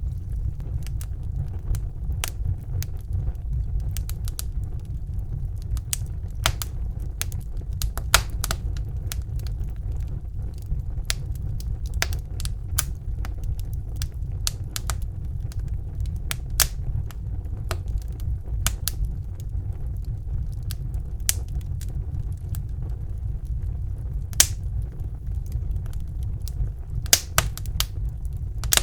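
Wood fire burning in a fireplace: irregular sharp crackles and pops over a steady low rumble, with a few louder snaps scattered through.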